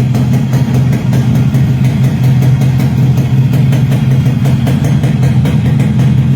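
Yamaha RXS 115's single-cylinder two-stroke engine idling steadily.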